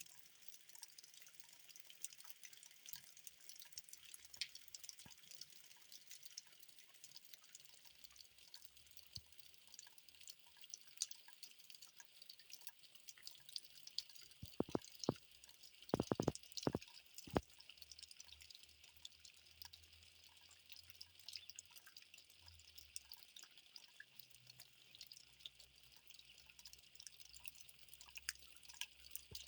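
Rain dripping: a dense, faint patter of small drops, with a handful of louder, closer drips or knocks about halfway through.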